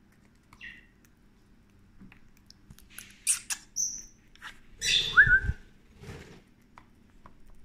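A pet budgie and lovebird making short, sharp chirps and squeaks. The loudest moment is a noisy rustle with a chirp about five seconds in.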